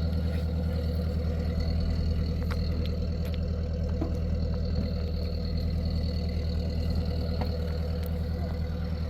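A motor vehicle's engine running steadily with a constant low hum, with a few faint clicks over it.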